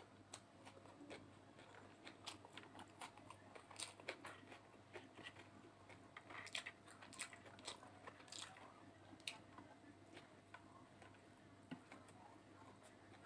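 Faint close-up chewing and biting as a person eats egg noodles with her fingers, with scattered soft crunches and mouth clicks, thickest in the middle stretch.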